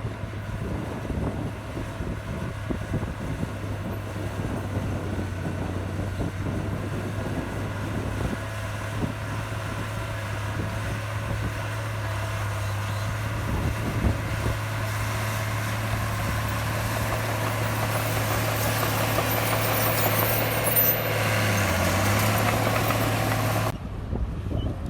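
Heavy diesel earthmoving machinery running: a steady low engine drone with a rough noisy layer above it. It grows louder and harsher over the last ten seconds or so, then cuts off suddenly near the end.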